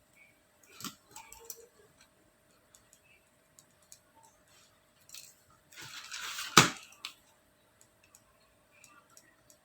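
Small clicks and knocks of objects being handled. About six seconds in there is a short rustling stretch that ends in one sharp, loud knock, like something set down hard.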